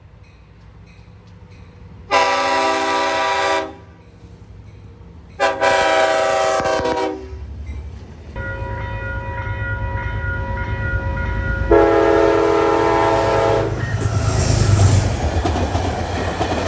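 Long Island Rail Road train sounding its horn for a grade crossing: two long blasts, then the rumble of the train passing builds and swells, with a third long blast about twelve seconds in.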